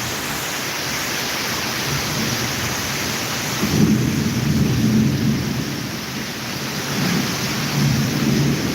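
Steady rain hiss throughout, with a low rumble of thunder coming in about four seconds in and rolling on, swelling and easing.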